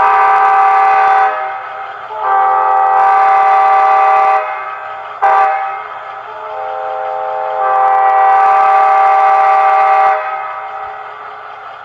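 Model locomotive sound decoder in an HO scale Bachmann Charger playing a diesel air-horn grade crossing signal: long, long, short, long blasts of a multi-note horn chord, the first long blast already sounding at the start.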